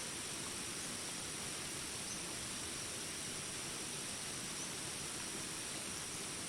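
Steady rain hiss with a continuous high insect drone over it, and a few faint short chirps now and then.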